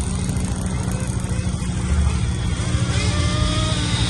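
Small nitro engines of 1/8-scale RC cars running, with high whining revs rising and falling near the end.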